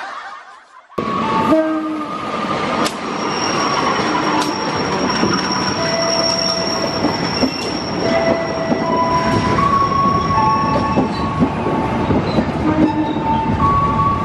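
Passenger train coaches running past close by: a loud, dense rumble of wheels on rail with squealing tones from the wheels at several pitches. It starts about a second in, after a brief lull.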